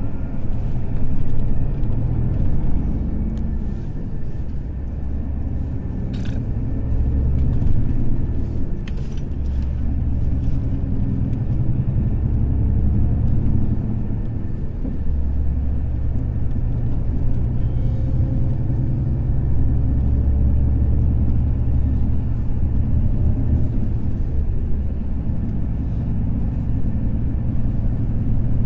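Diesel engine of a Volvo B420R coach running under way: a steady low rumble whose pitch rises and falls with engine speed.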